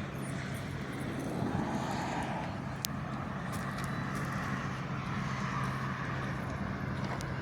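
Pilatus PC-21 turboprop trainer departing: a steady propeller drone with engine noise that swells gently and holds.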